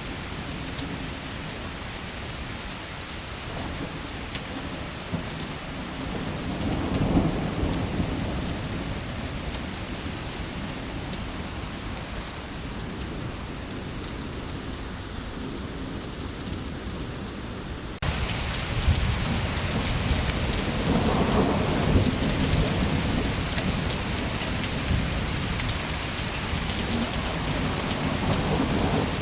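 Steady rain, with low rolls of thunder about seven seconds in and again just past twenty seconds. The rain turns abruptly louder about eighteen seconds in.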